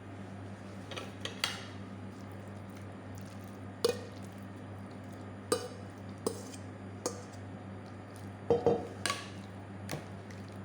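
Chicken pieces being mixed into a thick yogurt-and-cream marinade in a bowl: wet squishing with a dozen or so scattered clinks against the bowl. A steady low hum runs underneath.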